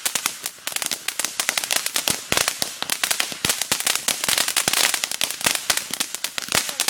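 Consumer firework crackling: a dense, irregular run of sharp pops, many per second.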